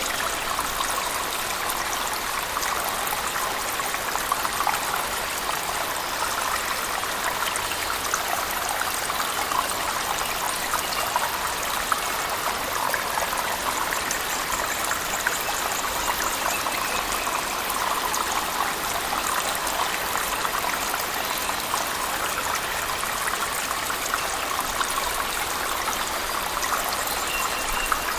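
Steady splashing rush of a cave waterfall mixed with heavy rain, unchanging throughout, with a dense fine crackle of droplets over it.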